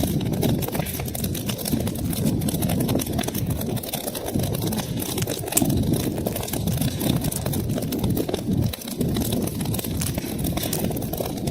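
Wood fire crackling in a fireplace: a steady low rumble of flames with many small quick pops and snaps throughout.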